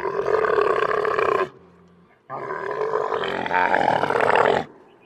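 Two long, loud animal calls, the first ending about a second and a half in and the second lasting about two seconds after a short gap.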